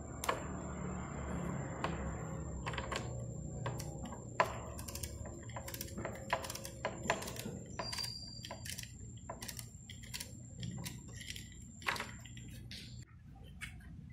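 Irregular sharp clicks and light knocks of hand work on small parts, with a thin steady high-pitched whine that stops near the end.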